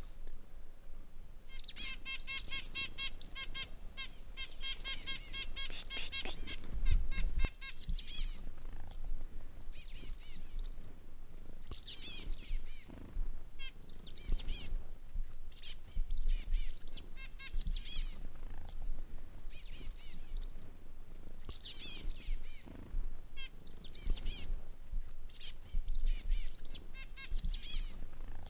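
Small birds chirping and twittering again and again in high, quick calls, with a rapid, evenly pulsed trill running through the first several seconds.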